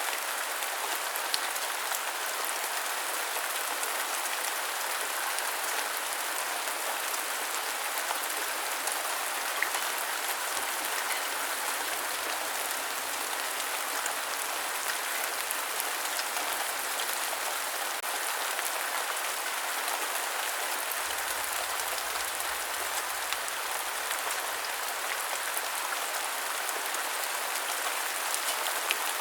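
Steady rain falling: an even hiss flecked with many small sharp drop ticks.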